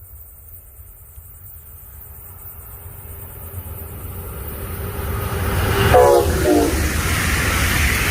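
A train approaching at speed, its rumble growing steadily louder, with a short horn blast about six seconds in that breaks into two notes, the second a little lower as the train passes.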